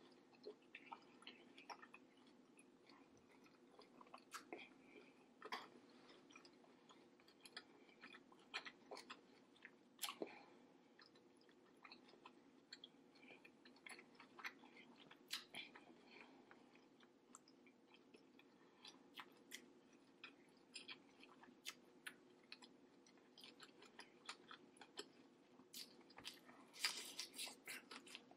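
Faint, close-miked chewing and wet mouth sounds of someone eating saucy seafood, with irregular small clicks throughout and a louder flurry of them near the end.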